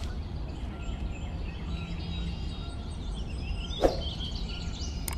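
Steady low background hum and noise, with one short click about four seconds in.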